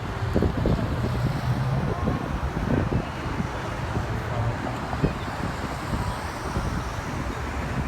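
Wind buffeting the microphone over the chatter of a crowd of spectators, with a car engine idling low for about the first half.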